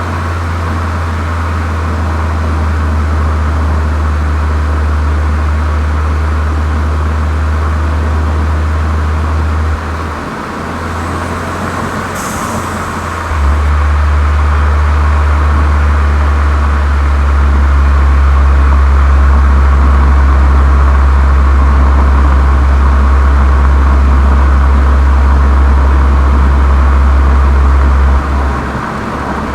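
VW Golf 7 GTI's turbocharged four-cylinder with an aftermarket Cox exhaust, running on the move with a deep, steady drone. About ten seconds in the drone briefly dips, then about thirteen seconds in it returns lower in pitch and louder, as after a gear change, and dips once more near the end.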